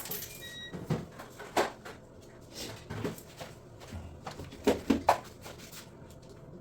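Scattered knocks and clicks of hands and tools working on washing-machine parts, with a sharp tap about a second and a half in and two close taps near five seconds, ringing a little in a small room. A brief high tone sounds about half a second in.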